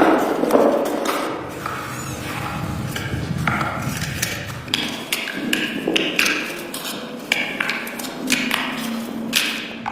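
Irregular taps, clicks and knocks of hand work on a laptop's plastic and metal parts.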